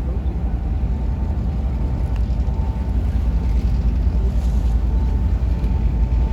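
Low, steady rumble of a harbour tour boat's engines, heard from on board, with wind buffeting the microphone.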